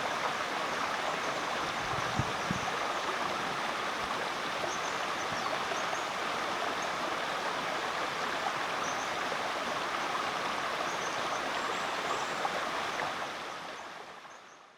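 Rainforest creek water flowing in a steady rush, with faint high chirps now and then, fading out over the last two seconds.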